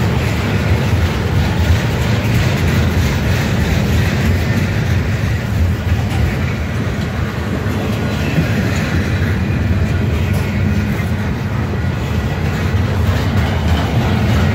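Freight train of double-stack well cars rolling past close by: a steady rumble of steel wheels on the rails.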